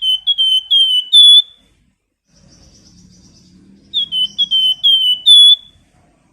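A flamboyan songbird whistling: two quick phrases of about five clear, down-slurred notes each, the last note of each phrase the loudest and a little higher. The phrases come about three seconds apart.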